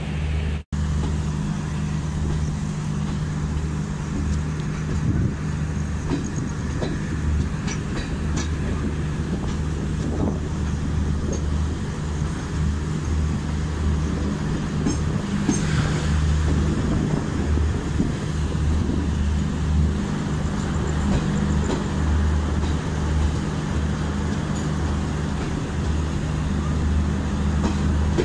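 Garib Rath Express passenger train rolling out of a station, heard from its own coach: a steady low hum with wheel rumble on the rails and occasional light clicks, growing slightly louder as it gathers speed. The sound drops out for a split second under a second in.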